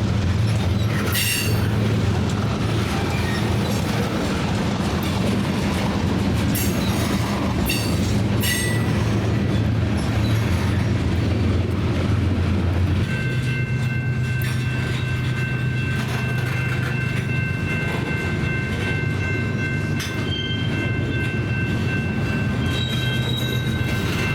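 A train passing close by with a deep diesel rumble and a few sharp clanks. About halfway through the rumble changes and a steady high-pitched ringing of several tones starts over the rolling cars.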